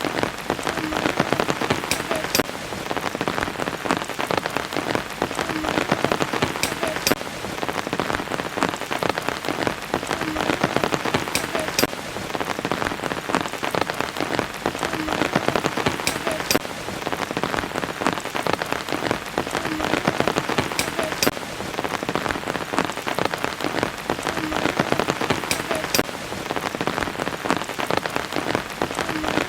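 Steady rain falling, with many individual drops ticking sharply on surfaces over a dense hiss.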